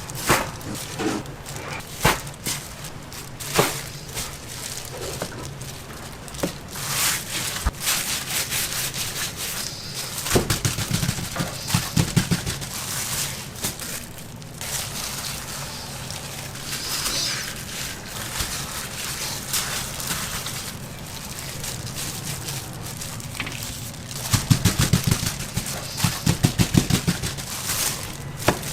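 Food-preparation sounds: a run of sharp knocks and clatter over a steady crackling hiss, with bursts of rapid thuds about ten seconds in and again near the end.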